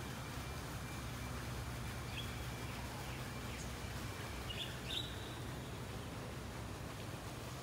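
Outdoor park ambience: a steady low rumble with a few short bird chirps, one about two seconds in and a couple around the five-second mark, over a faint thin steady high tone.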